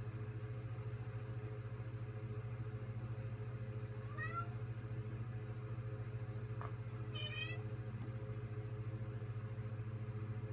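A domestic cat meowing twice, a short rising call about four seconds in and a higher one about seven seconds in, over a steady low hum.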